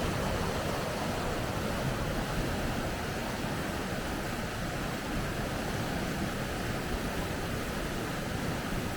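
River rapids rushing, a steady even wash of water noise.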